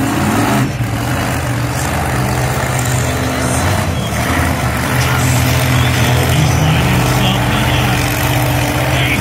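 Monster truck engine running with a deep, steady note that grows a little stronger about five seconds in.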